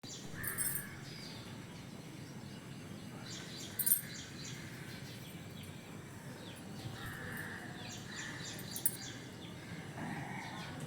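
Small birds chirping and calling now and then, with a few quick runs of repeated high notes, over steady low background noise.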